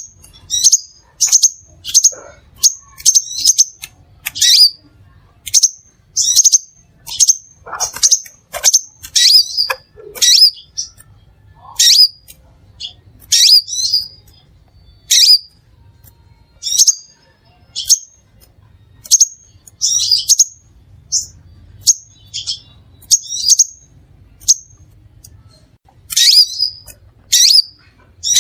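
Crimson sunbird calling: short, sharp, high chips repeated about once or twice a second, some coming in quick doubles or small clusters.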